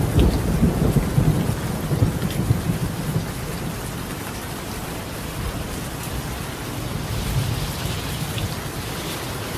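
Steady heavy rain falling on a tiled roof, with a rolling rumble of thunder that is loudest in the first three seconds and then dies away, and a fainter rumble swelling near the end.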